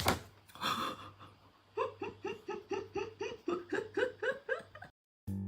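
High-pitched laughter: a rapid run of short 'ha' sounds, about four a second, that cuts off abruptly near the end.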